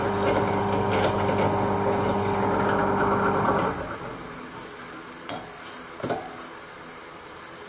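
A small electric power tool motor running with a steady hum, cutting off a little under four seconds in, followed by a few light metal clinks of tools or parts being handled.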